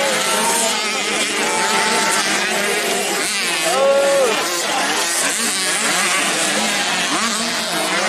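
Several 85cc motocross bikes racing on a grasstrack, their engines revving up and down as they accelerate and back off, overlapping one another; one bike's engine sweeps up and then drops off about four seconds in.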